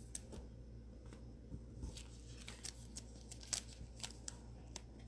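Faint rustling and small clicks of trading cards being slid into thin plastic penny sleeves, with a steady low hum underneath.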